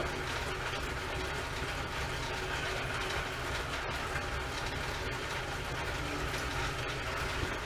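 A steady low mechanical hum with a fine, rapid rattle.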